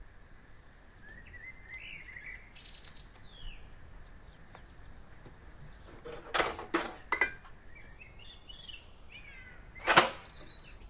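Small birds chirping in the background, with a quick run of four or five knocks and clatters about six seconds in and one louder swishing knock near the end, as camping gear is handled and set in place.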